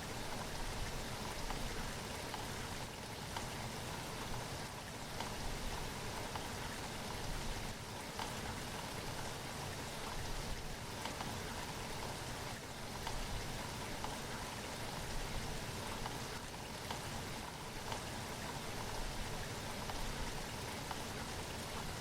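Steady rainfall: an even hiss of rain, dotted with countless small drop impacts.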